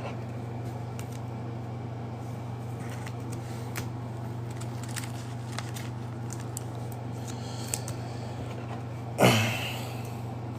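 Trading cards and their packaging being handled: faint rustling and small clicks over a steady low hum, with one brief louder rustle about nine seconds in.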